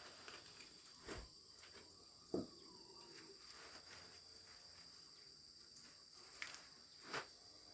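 Near silence: a faint steady high-pitched whine, with three soft knocks spread through it.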